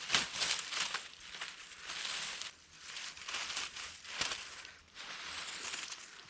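Dry leaves and twigs rustling and crackling in irregular surges, with short sharp crackles about a second and a half in and again about four seconds in.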